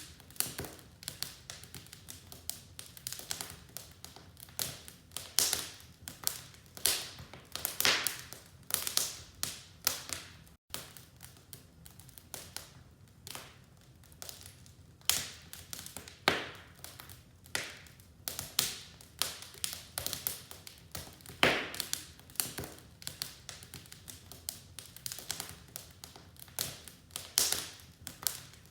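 Wood fire crackling in a fireplace: irregular sharp snaps and pops, several a second, some louder than others, over a faint low hiss of burning.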